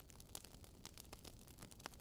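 Wood campfire crackling softly: scattered small pops and snaps, one a little sharper near the end, over a faint hiss.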